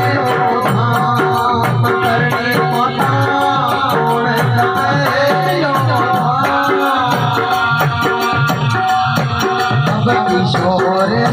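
Instrumental passage of Rajasthani devotional folk music: a melody line played over a fast, steady percussion beat with a bright rattling, shaker-like top.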